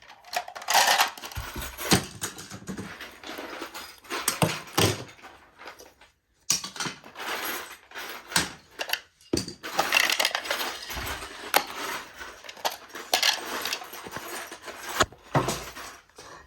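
Small toy pieces clattering, clicking and rustling against each other as a box of toys is rummaged through.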